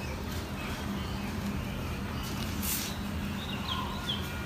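Quiet outdoor background with a low steady hum and faint bird chirps near the end, plus a short hiss about halfway through.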